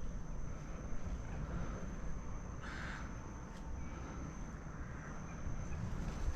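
A short, harsh bird call about three seconds in, over a low rumble of wind on the microphone and a thin, steady high tone.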